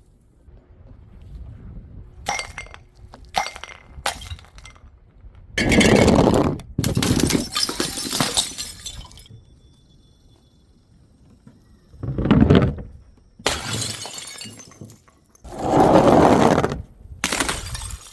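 Glass bottles shattering one after another, with smaller clinks of glass in between; the biggest breaks come about six, twelve and sixteen seconds in, each trailing off in a spill of breaking glass.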